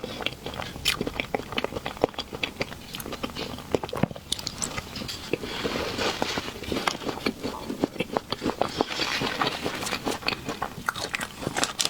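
Close-up chewing of soft cake: a dense run of small wet mouth clicks and smacks.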